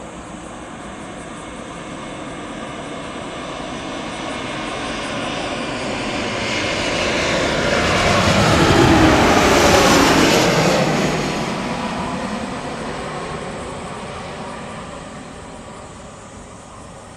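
Airbus A320neo (A320-271N) with Pratt & Whitney PW1100G geared turbofan engines passing on landing: the jet roar swells to a peak about nine to ten seconds in, then fades away.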